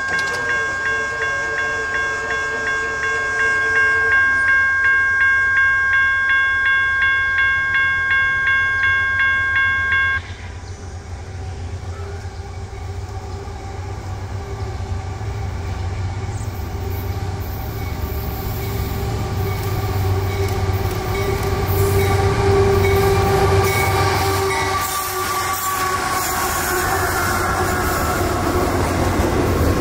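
Railroad grade-crossing bell ringing about twice a second, cutting off suddenly about ten seconds in. Then a CSX double-stack container freight train approaches, sounding a long held horn chord, and rumbles past with its wheels clattering on the rails.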